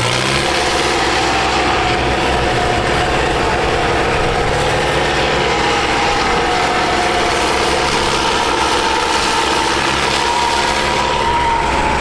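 Tractor engine running hard at high revs, a steady loud drone whose pitch climbs slightly over the last few seconds and then drops.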